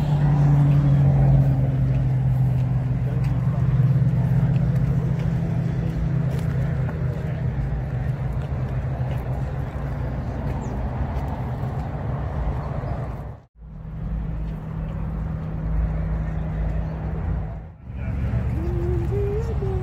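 An engine running steadily at idle, with the murmur of people talking around it. The sound cuts out briefly twice.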